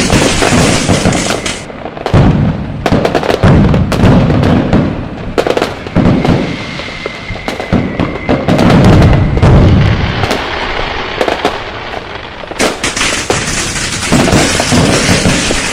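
Firecrackers and fireworks going off: dense crackling, many sharp bangs and several deep booms. A steady high whistle runs for about three seconds midway.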